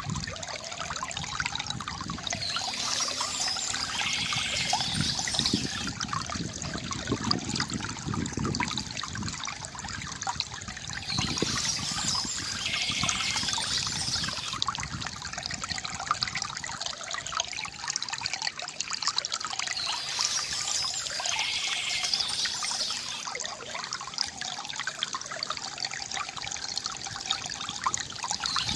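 Water trickling and gurgling steadily from a bamboo fountain, with a brighter, hissier patch coming back about every nine seconds.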